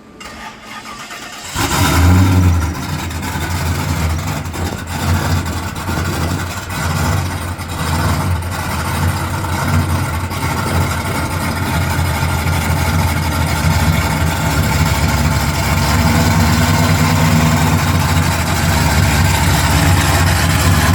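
A car engine starts about a second and a half in and then keeps running loudly and steadily, its low note growing slightly louder over time.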